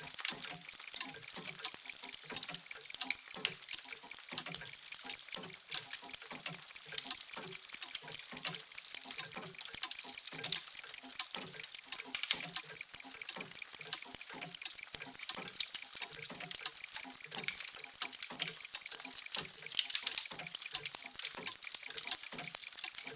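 Many antique mechanical clocks ticking at once and out of step with one another, giving a dense, steady stream of overlapping ticks.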